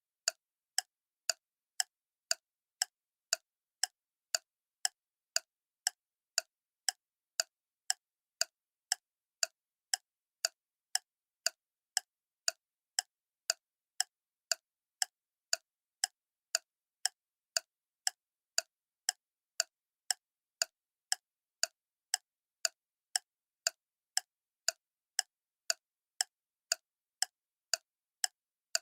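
Clock ticking steadily at about two ticks a second, each tick a sharp, short click with silence between.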